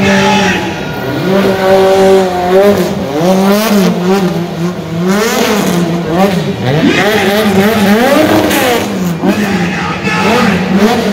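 Car engine revving hard, its pitch rising and falling again and again.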